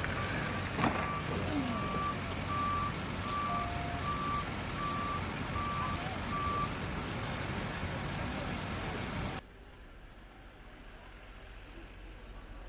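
A vehicle's reversing alarm beeping at an even pace over steady street noise, stopping about halfway through. Near the end the sound drops suddenly to a much quieter background.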